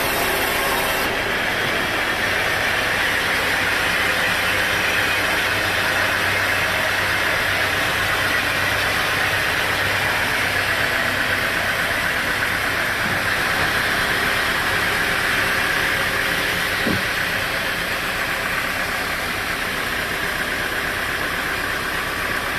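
Sawmill machinery running steadily: a continuous mechanical whirr with hiss, a low hum underneath, and a light tap about two-thirds of the way through.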